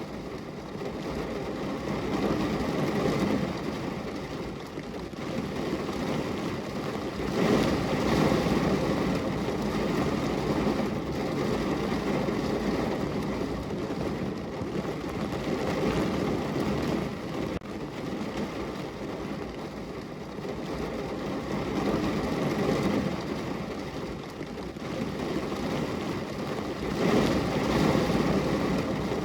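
Heavy rain falling on a car roof, heard from inside the car: a dense, steady patter that swells louder and eases off several times.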